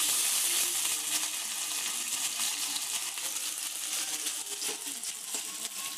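Potato pieces sizzling as they fry in oil in a metal kadai, stirred with a metal spatula that scrapes and clinks against the pan. The sizzle is loudest at first and a little quieter after about a second.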